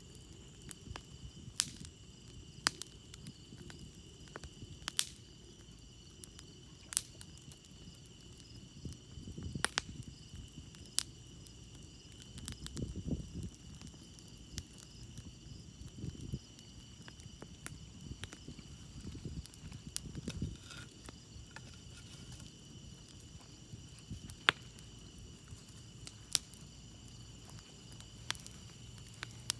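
Wood campfire crackling, with sharp pops scattered irregularly throughout, over a steady high trill of crickets. A few low rumbling swells come and go in the middle.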